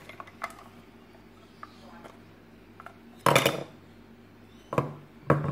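Handling of a coffee maker's hard parts: a few light clicks, then a loud, sharp clatter about three seconds in and two shorter knocks near the end.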